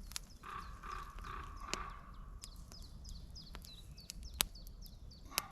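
Campfire crackling with scattered sharp pops, while a small bird chirps over and over in the background. In the first half a scratching sound runs for about two seconds, from a pencil drawing on the target.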